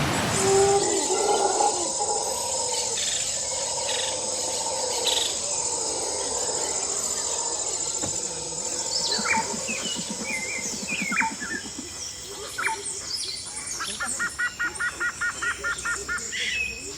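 Birds calling over a steady high insect drone. Near the end comes a rapid run of about ten repeated notes, roughly five a second.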